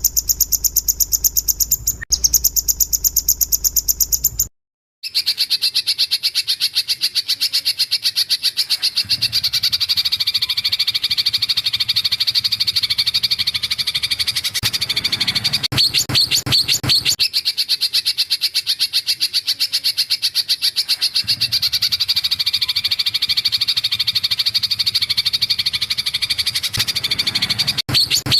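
Songbird giving a loud, rapid rattling trill, high-pitched and made of fast repeated pulses. It breaks off briefly about four and a half seconds in, then starts again and runs on steadily.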